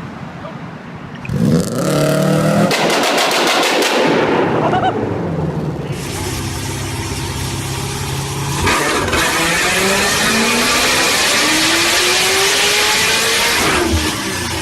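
Loud vehicle exhaust. An engine revs up suddenly about a second in and lets out a rapid string of sharp crackles and pops. After a cut, another engine pulls hard, its pitch rising steadily for several seconds before it stops abruptly near the end.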